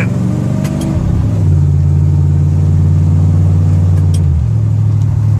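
Truck engine pulling under throttle through a 3000 rpm stall torque converter, steady and loud. It grows louder about a second and a half in, then its note steps down about four and a half seconds in.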